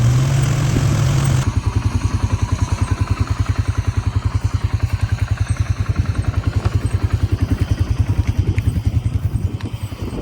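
Tractor engine running with the round baler in operation. About a second and a half in, the higher-pitched noise cuts off abruptly and the engine carries on with an even, rapid low pulsing.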